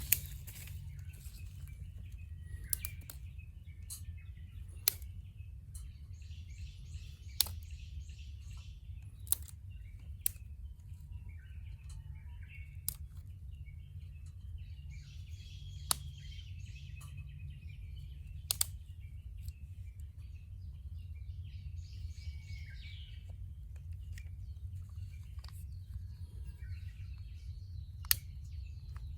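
Wood fire crackling, with sharp single pops every second or few over a steady low rumble. Birds chirp in the background at times.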